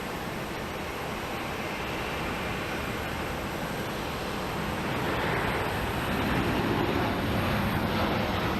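Jet airliner engines: a broad rushing noise that grows louder about five seconds in.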